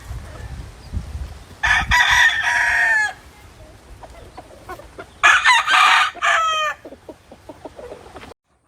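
Gamefowl roosters crowing: two long crows about three seconds apart, each ending in falling notes. The sound cuts off suddenly near the end.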